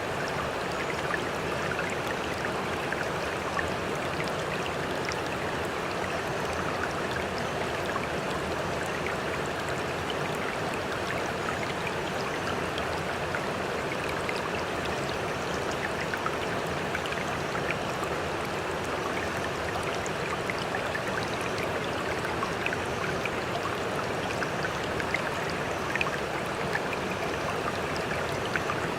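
Steady rush of sea water, with many small splashes and drips throughout.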